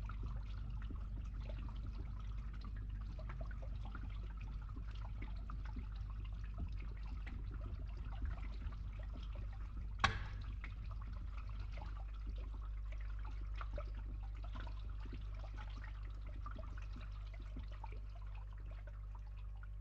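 Water trickling faintly over a steady low hum, with one sharp click about halfway through.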